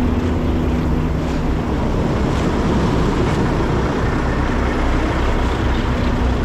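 Heavy diesel engine running steadily with a low rumble, with some wind noise.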